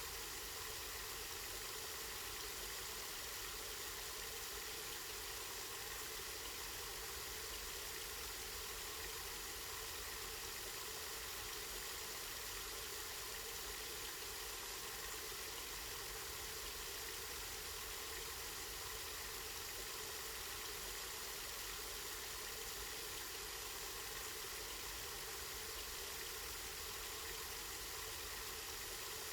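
Spring water running steadily, an even unbroken hiss, with a low rumble underneath.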